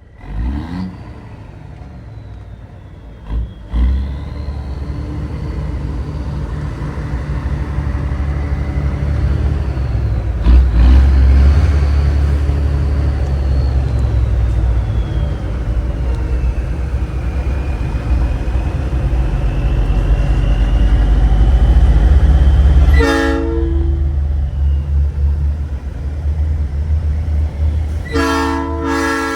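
A Nathan Airchime P3 train horn on a big rig sounds a short chord blast about two-thirds of the way in, then a longer blast near the end. Under it runs the deep, steady rumble of the truck's diesel engine and road noise.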